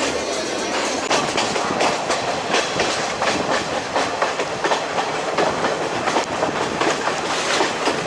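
Passenger train running along the track, its carriage wheels clacking irregularly over the rail joints under a steady rumbling rattle.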